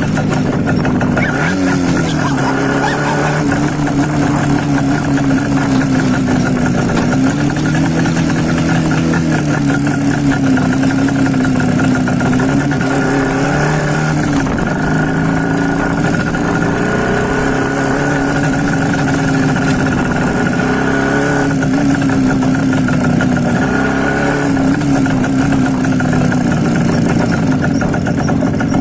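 IZH Planeta 5 motorcycle's single-cylinder two-stroke engine running with the baffles pulled out of its mufflers, under way, its pitch rising and falling with the throttle.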